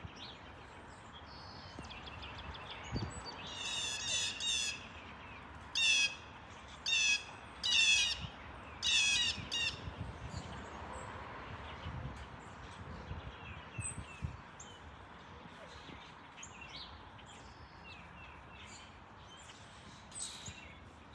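A small bird calling in a string of loud, rapid chattering bursts, about one a second from around four to ten seconds in, then only softer scattered chirps. Under it runs a steady rushing background noise.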